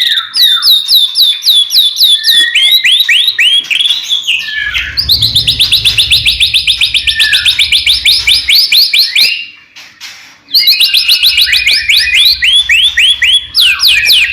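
White-rumped shama singing loudly in fast runs of repeated, downward-sliding whistled notes, several a second, with a brief pause about ten seconds in.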